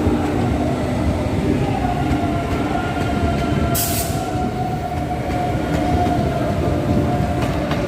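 Passenger train running at a station platform: a steady low rumble with a held whine from wheels or motors, and a short hiss about four seconds in.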